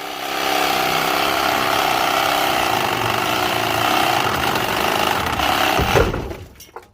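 Reciprocating saw (Sawzall) cutting through steel, running steadily. About six seconds in there is a heavy low thud and the saw stops, as the cut piece breaks free.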